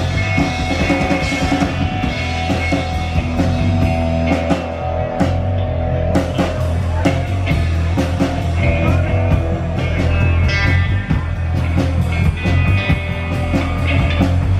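Live rock band playing an instrumental stretch: drum kit keeping a steady beat under bass and electric guitar.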